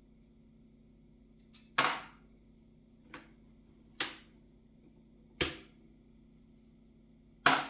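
A series of sharp, hard clacks, about six in all and spaced irregularly a second or two apart, each with a brief ring-out, as parts of an IBM Model M keyboard are handled; the last clack is the loudest.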